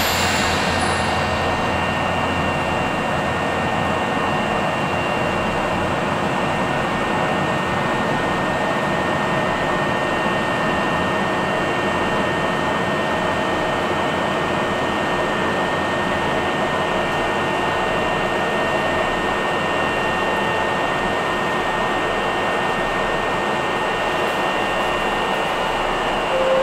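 Steady whirring hum of an electric commuter train's air conditioning and onboard equipment, with two faint steady high-pitched whines.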